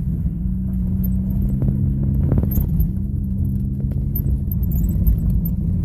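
Ford Focus four-cylinder engine running steadily at low revs with the muffler and resonator removed, a deep exhaust drone heard from inside the cabin, with light clicks and rattles over it.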